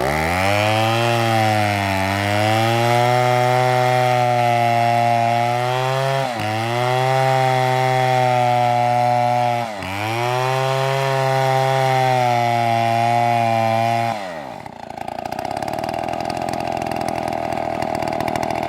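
Chainsaw running at full throttle through wood, its pitch sagging briefly twice. About fourteen seconds in the engine note drops away, and a softer, rougher sound follows.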